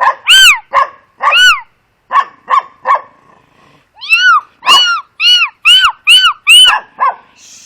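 High-pitched yipping barks in two runs: about seven quick barks in the first three seconds, then, after a short pause, a more even run of about seven more.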